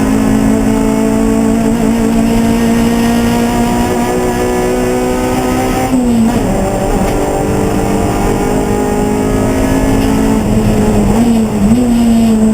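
Race car engine running under load, its pitch holding fairly steady with a slow sag, briefly dipping about halfway through and blipping up twice near the end.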